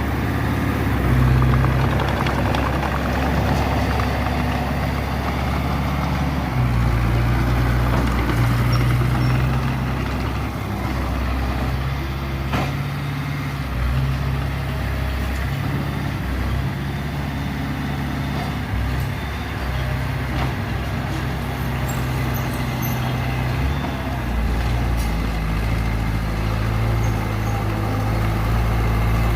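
Heavy diesel machinery engine running steadily, its low note shifting up and down several times as the load or throttle changes.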